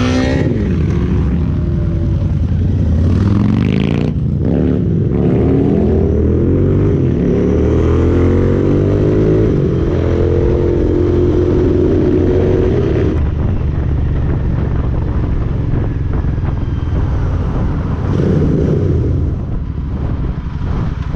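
Motorcycle engine accelerating through the gears on the road, its pitch climbing and dropping back with each shift several times. For the last third it settles into a steadier run at speed.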